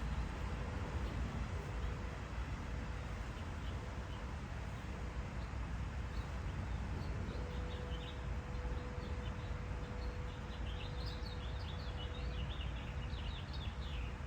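Garden birds chirping in short, high calls, scattered at first and thickest near the end, over a steady low background rumble and a faint steady hum.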